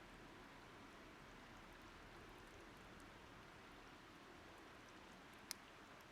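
Faint wood fire crackling, with scattered small ticks and one sharper pop about five and a half seconds in, over the steady hiss of a river.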